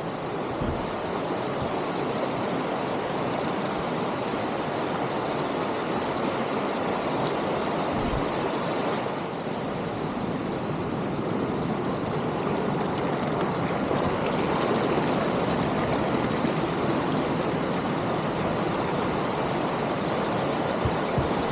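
Steady rush of flowing water, with a few faint high bird chirps about ten seconds in.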